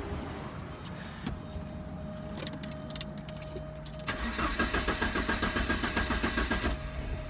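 1988 Porsche 944 engine being cranked by the starter in a rhythmic run of about two and a half seconds, beginning about four seconds in, without catching: a no-start with the DME relay jumpered so the fuel pump runs. A steady thin whine sounds from about a second in.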